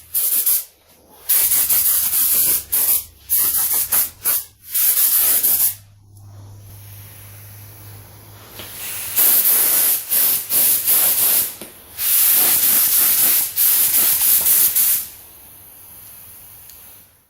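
Pressurised spray hissing in repeated on-off bursts, a fraction of a second to about three seconds each. A quieter steady hiss with a low hum fills the gap from about 6 to 9 seconds in.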